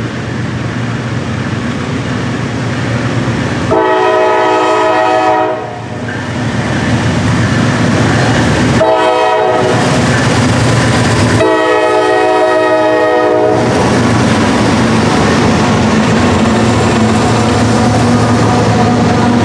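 Norfolk Southern GE D9-44CW diesel locomotive's air horn sounding long, short, long, over the steady rumble of the locomotive and freight train, which grows louder after the second blast as the train comes by.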